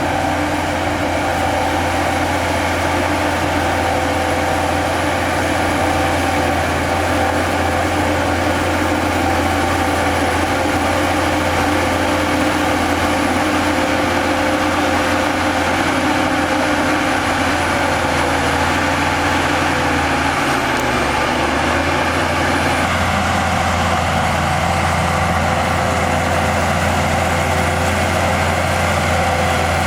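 Heavy diesel engine of earthmoving machinery running steadily under work, its tone shifting slightly about two-thirds of the way through.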